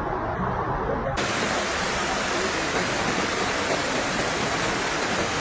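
Rushing floodwater: a dense, steady noise of fast-moving water, turning brighter and fuller about a second in.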